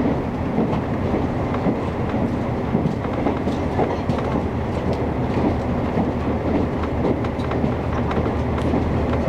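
Inside the Resort Minori, a converted KiHa 48 diesel railcar, running along the line: a steady low engine hum under the rumble of the wheels on the rails, with faint clickety-clack from rail joints.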